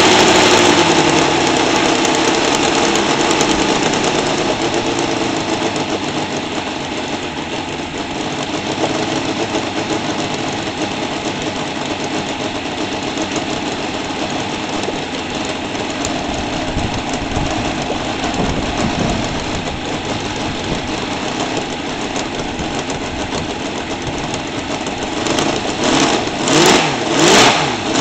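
Seidel 7-70 seven-cylinder radial model aircraft engine running on a test stand, turning a 24 x 10 propeller during break-in. It throttles down about a second in, runs steadily at the lower speed, then is revved up and down several times near the end.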